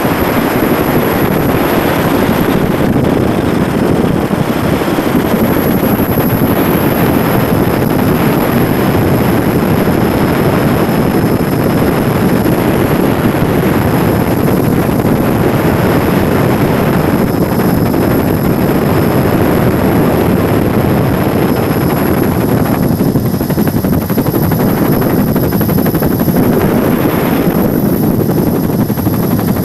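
Helicopter engine and rotor noise, heard as a loud, steady drone with a thin high whine over it.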